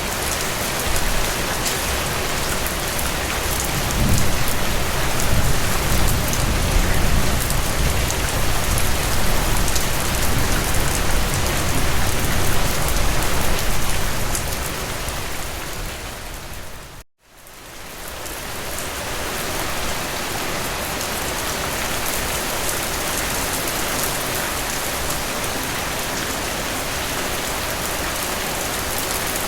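Heavy rain falling steadily, with a low rumble underneath for several seconds in the first half. About two-thirds of the way through, the rain fades out to silence for a moment and then fades back in.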